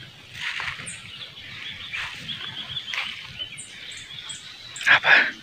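Short, high bird chirps coming from dense bushes, then two loud, sharp sounds close together near the end.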